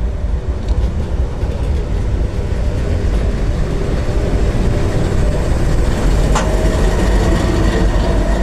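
Train running past: a steady low rumble, with one sharp click about six seconds in and a faint steady whine near the end.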